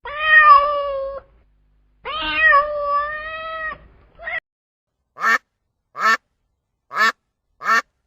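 A cat meowing twice in long, drawn-out meows, then four short, sharp calls in quick succession.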